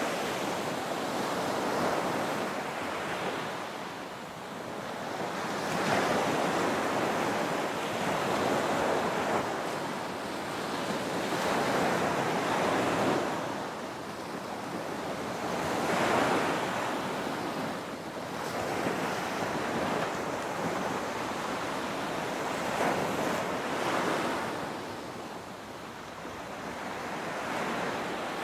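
Ocean surf breaking on a beach: a continuous wash of waves that swells and ebbs every few seconds as each wave breaks and runs up the sand.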